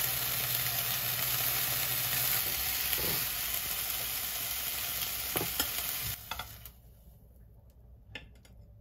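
Bacon-wrapped rolls sizzling in a ceramic-coated frying pan, with a few sharp clicks of metal tongs against the pan as they are turned. The sizzle cuts down about six seconds in, leaving faint clicks.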